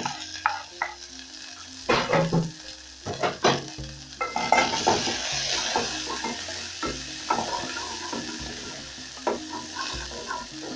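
Onions, garlic and coriander stems frying in oil in a metal pot, sizzling while a wooden spoon stirs them, with irregular knocks and scrapes of the spoon against the pot. The sizzling grows stronger about four seconds in.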